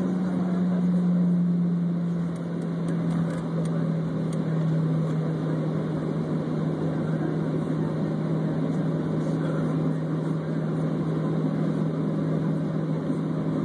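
Jet airliner engines heard from inside the passenger cabin in flight: a steady low drone over rushing air noise, the drone dropping slightly in pitch about two seconds in.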